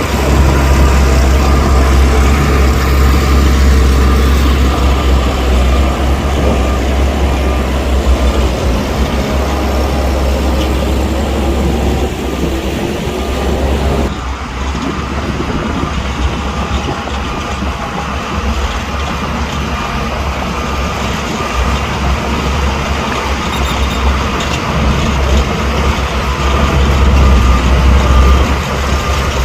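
Heavy diesel earthmoving machinery running under load, a loud low rumble with the engine pitch rising and falling. The sound changes abruptly about halfway through.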